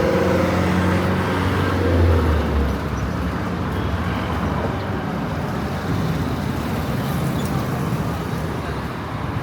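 A motor vehicle engine running close by, its hum fading out about two and a half seconds in, over steady street traffic noise.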